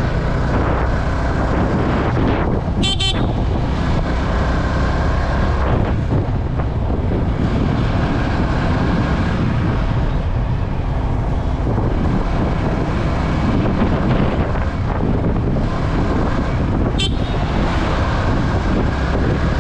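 Riding on a Yamaha R15 V3, a 155 cc single-cylinder motorcycle: steady engine and road noise with heavy wind buffeting on the camera microphone. Two brief sharp ticks cut through, about three seconds in and again near the end.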